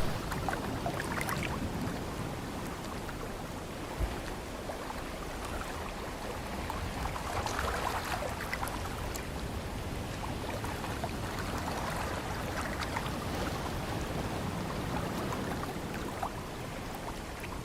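Ocean surf washing in gentle, slowly swelling waves, with one short knock about four seconds in.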